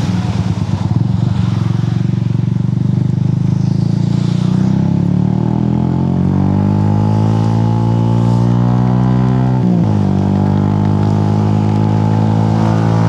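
Motorcycle engine under way: it runs steadily for a few seconds, then its pitch climbs smoothly as it accelerates, dips sharply at a gear change about ten seconds in, and holds steady afterwards.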